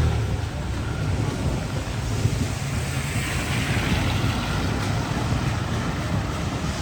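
Steady rushing street noise of wind and traffic with a low engine rumble underneath; a passing vehicle's engine fades away at the very start.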